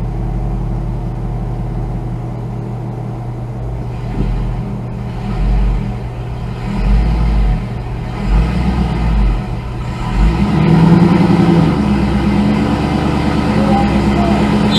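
Car engine running, revved in short surges and then held at higher revs from about ten seconds in, as the driver tries to drive the crooked, stuck car free.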